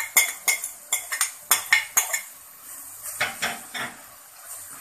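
A cooking utensil clinking and scraping against a pan as sauce ingredients are stirred: a quick run of sharp clinks in the first two seconds, then a few softer scraping strokes.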